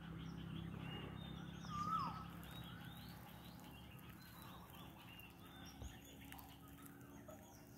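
Birds chirping and calling faintly, short whistled notes from several birds, with a falling whistle about two seconds in. A faint low steady hum runs underneath.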